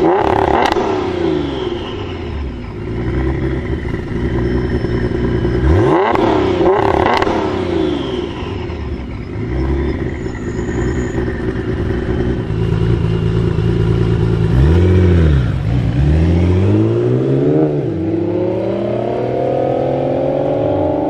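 Nissan GT-R R35's twin-turbo V6 revved hard while standing, several quick rises and falls in engine pitch, with sharp cracks from the exhaust around the first two revs. Near the end, GT-Rs accelerating away with a long rising engine note.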